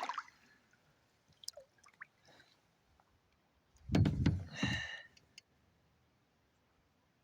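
Kayak paddling: water dripping and sloshing off the paddle, with a few small drips and clicks and one louder burst about four seconds in.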